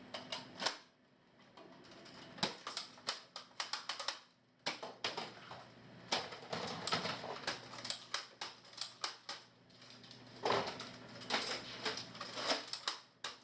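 Toy dart guns clicking and clacking as they are handled and fired, in irregular rapid runs of sharp plastic clicks.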